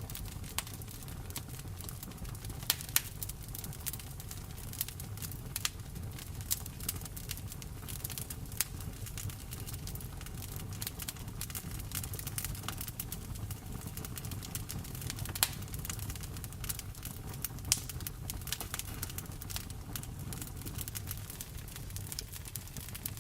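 Wood fire in a fireplace crackling, with frequent irregular sharp pops, some louder than others, over a steady low rumble of rain.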